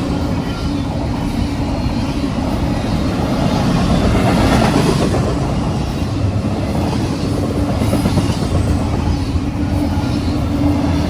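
Freight train cars rolling past, a steady noise of wheels on rail.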